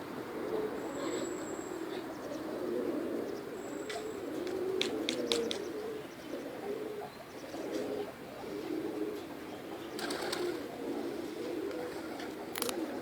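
Domestic pigeons cooing one over another without pause, with a quick run of sharp clicks about five seconds in and a few more about ten seconds in and near the end.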